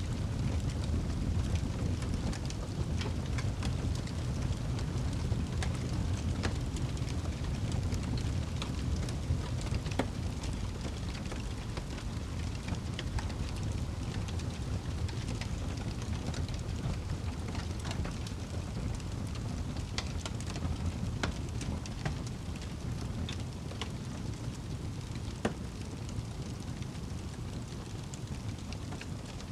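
Wood fire burning in a fireplace, a steady low rumble of flames with frequent sharp crackles and pops scattered irregularly throughout.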